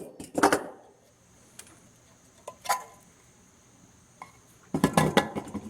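Magnetron magnets and steel pliers clinking and clacking against metal while the magnets are pulled free. There are scattered single sharp clicks, with a quick flurry of clacks near the end.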